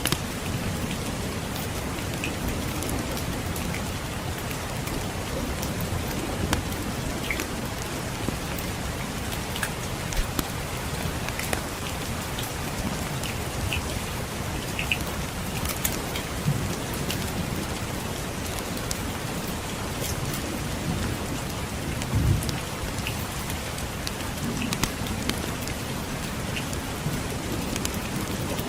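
Steady rain hissing, with scattered sharp crackles and pops of a wood fire and a low, rolling rumble of distant thunder that swells about 22 seconds in.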